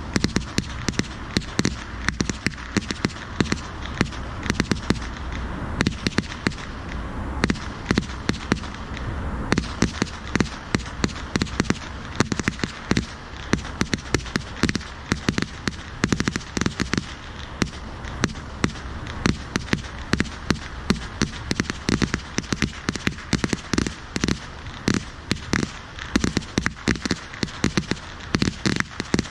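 Firecrackers and fireworks going off in rapid succession, a dense, irregular run of sharp pops and cracks, several a second.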